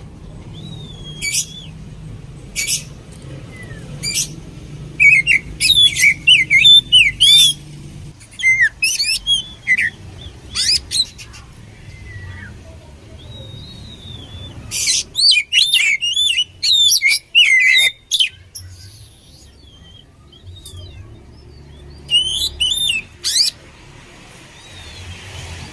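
Oriental magpie-robin (kacer) singing: bursts of fast, high chirps and whistled phrases, separated by short pauses.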